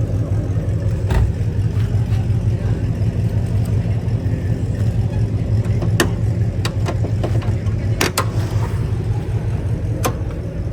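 A car engine idling steadily with a low, pulsing rumble, with a few sharp clicks over it.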